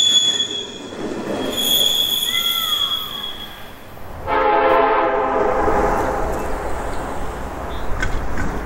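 Freight train wheels squealing with a steady high tone, fading out. About four seconds in, a Union Pacific diesel locomotive's multi-note horn sounds once for about two seconds, then a steady rumble of the approaching freight train.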